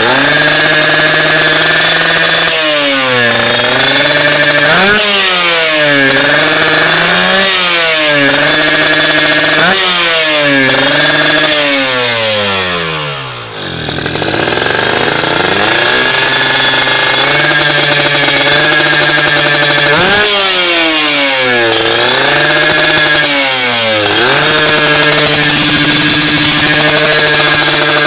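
Kawasaki Ninja motorcycle engine revved through a D2T big-volume aftermarket exhaust, the revs rising and falling in repeated blips about every two seconds. About halfway through the revs fall away sharply and the engine nearly dies, runs low and steady for a couple of seconds, then the revving picks up again.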